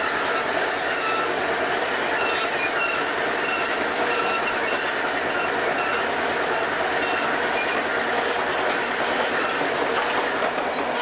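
Chihuahua–Pacific Railway passenger train running steadily on the rails, heard from aboard: a constant rumble and rattle of the cars with short, high wheel squeals coming again and again.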